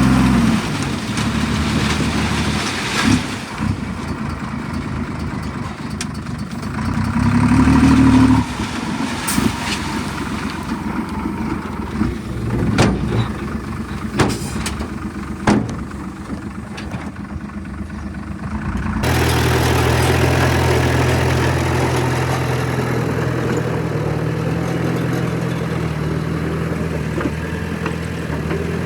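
Diesel engine of heavy earthmoving machinery running, with several sharp clanks in the first half and a brief rev about eight seconds in. A little past halfway the sound changes abruptly to a steadier engine note.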